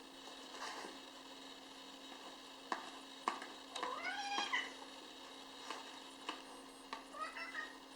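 Kitten meowing twice: a longer meow that rises and falls about four seconds in, and a shorter one near the end. Scattered light clicks and knocks come between them over a steady low hum.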